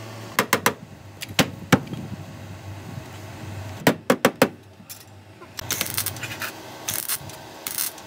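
Metal tools being handled during auto body work: sharp clinks and taps in small groups, three near the start and four about halfway. Near the end come a few seconds of short, rough, hissing strokes.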